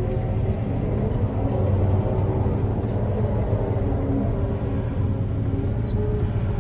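Heavy diesel engine running steadily, a deep even rumble with a held hum above it.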